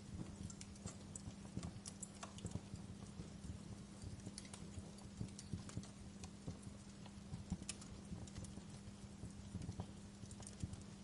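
Fire crackling, with many small irregular pops and snaps over a low steady hum.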